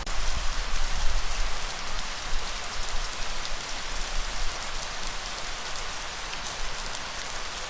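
Steady rainfall: an even hiss of rain with scattered individual drops. A low rumble sits underneath, stronger in the first couple of seconds and then fading.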